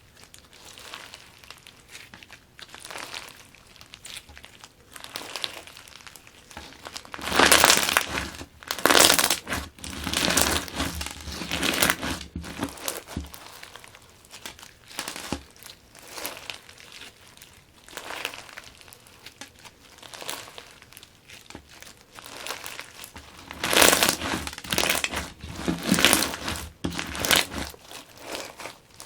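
Fishbowl crunch slime being squeezed and worked by hand, the plastic fishbowl beads crackling and crunching. The crackling stays quiet for most of the time, with two louder, denser stretches: one about a quarter of the way in and one near the end.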